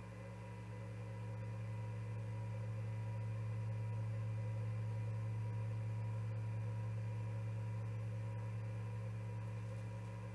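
Steady electrical hum: a low buzz with a few fainter steady tones above it and a faint hiss, swelling slightly in the middle.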